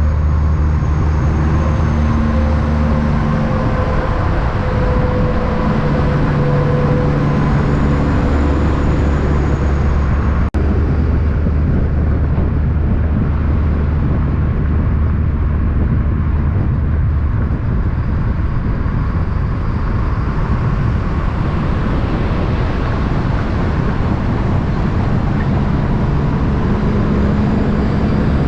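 Motor vehicle running on the road: a steady engine hum with dense road noise, the engine's pitch shifting slowly, and one brief break in the sound about ten and a half seconds in.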